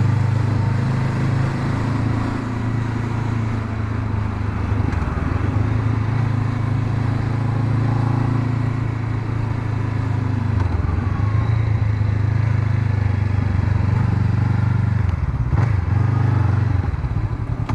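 Honda CB500X's 471 cc parallel-twin engine running under way, its engine note dipping briefly a few times.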